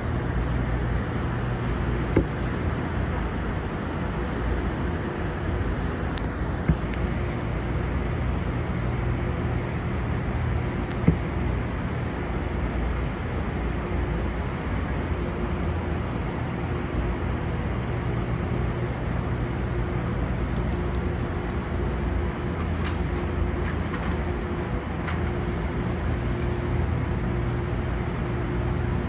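Tokyo Metro 05 series train standing at the platform, heard from the driver's cab: a steady hum from its onboard equipment with low, even tones. Three short clicks come about 2, 7 and 11 seconds in.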